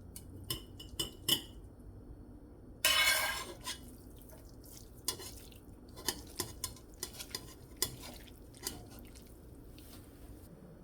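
Cutlery clinking and tapping against dishes in a series of light clicks, with a brief louder scrape about three seconds in.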